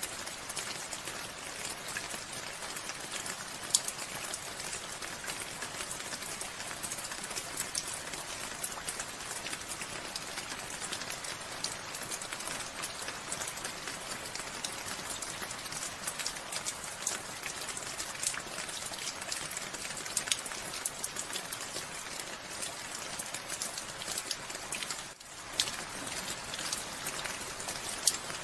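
Steady rain: a dense hiss of falling drops, with single drops ticking sharply on a surface throughout. The sound drops out for an instant near the end.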